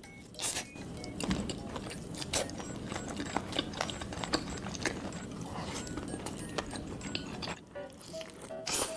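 Close-miked ASMR eating: crunchy bites and chewing, a dense run of sharp crackles and clicks, briefly quieter near the end before one louder crunch.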